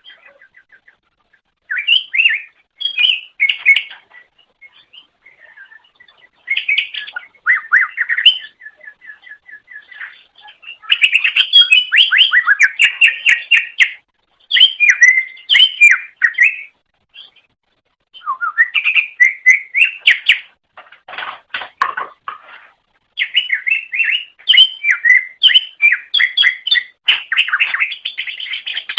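Green leafbird (cucak ijo) singing: loud bursts of varied, rapid chattering trills and whistled notes, broken by short pauses. About two-thirds of the way through comes a harsher, lower phrase.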